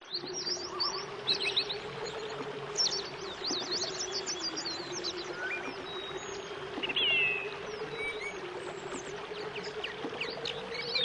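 Small birds chirping and twittering in many short, high, quick notes over a steady rushing hiss, with a low wavering hum underneath.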